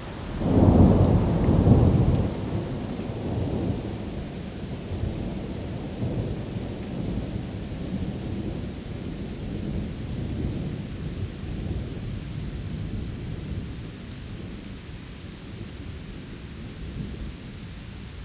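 Thunder over steady rain: a loud low peal about half a second in, peaking again near two seconds, then a rolling rumble that fades away over about ten seconds while the rain keeps falling.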